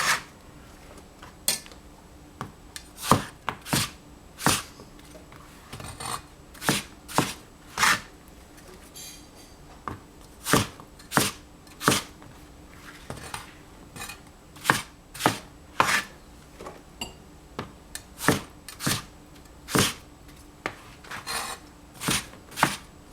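Knife chopping eggplant on a cutting board: single sharp knocks at an uneven pace, about one or two a second.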